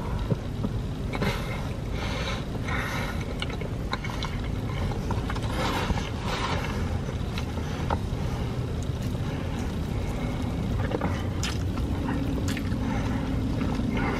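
Close-up wet chewing and mouth sounds of someone eating cheesy deep-dish pizza, with soft smacks and clicks. A steady low rumble runs underneath inside the car cabin.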